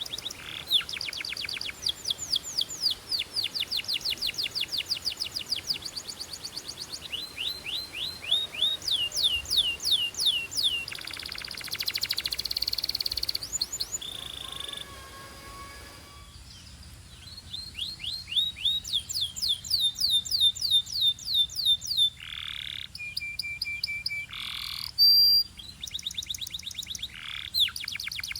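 Canary song: fast trills of rapidly repeated down-sweeping notes, with a buzzy rattling passage about halfway through and a few longer swooping notes in the second half.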